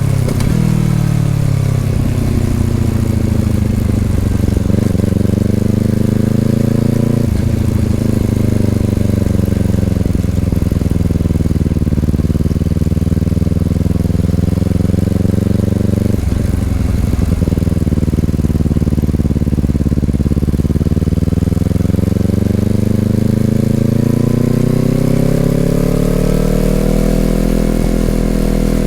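Honda CBR250RR parallel-twin engine through an Over Racing aftermarket exhaust, heard onboard while riding. The exhaust note falls and rises with the throttle, with a brief break at a gear change twice, and climbs steadily near the end.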